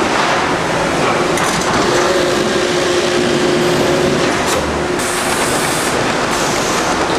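Sawmill line running for pallet-board production: loud, continuous machinery noise with a steady hum through the middle seconds and short bursts of high hiss near the end.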